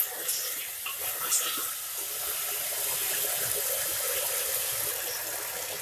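Sliced potatoes sizzling steadily in hot oil as they fry, with a wooden spatula stirring them and knocking against the pot a few times.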